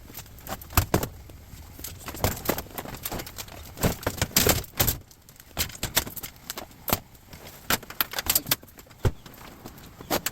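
Irregular clanks, clicks and rattles of scrap metal being handled and sorted, several knocks a second with louder clusters about halfway through.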